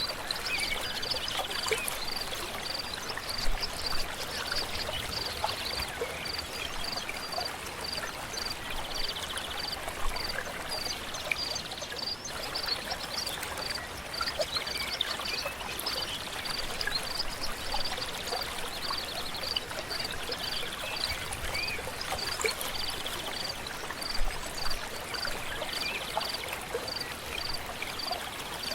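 Stream water flowing and pouring steadily. Over it, a high chirp repeats evenly about three times every two seconds, with short bird trills every few seconds.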